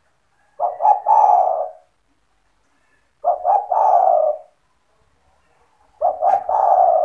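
Spotted dove (tekukur) cooing: three phrases, each of two or three short notes and then a longer drawn-out coo, repeated about every two and a half seconds.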